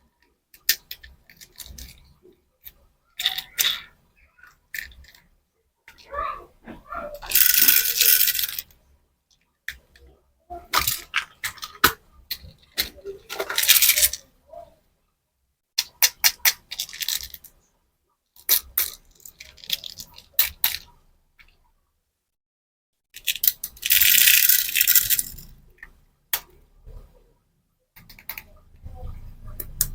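Small hard candies rattling and clicking against hard plastic packaging, shaken or poured in several bursts of a second or two, with separate clicks and taps in between.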